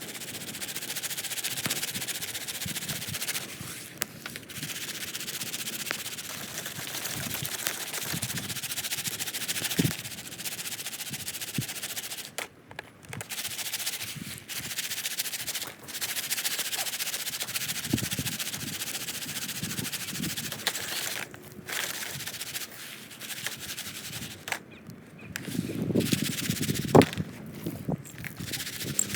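Popcorn popper being shaken over a campfire: kernels rattling steadily, with scattered sharp pops. The shaking stops briefly twice, about twelve seconds in and again near the end.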